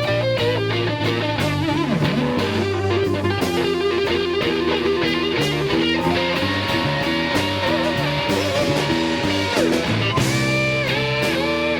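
Slow electric blues from a guitar, bass and drums trio, the electric guitar playing lead lines with bent notes over the bass and drums.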